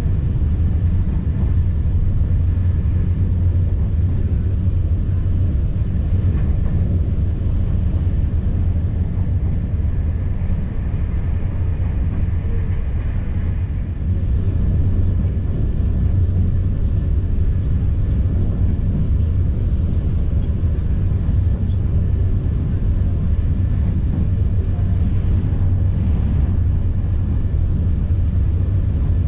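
Steady low rumble of a CP Intercidades Corail passenger coach running at speed, heard from inside the coach: the wheels rolling on the rails, with no pauses.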